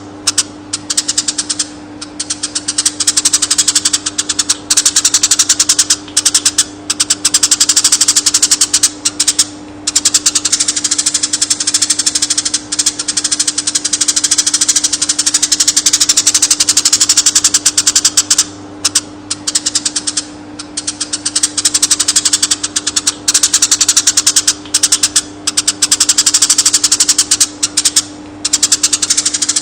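Konin bird singing a fast, chattering trill of rapid notes that runs on with short breaks every few seconds, over a steady low hum.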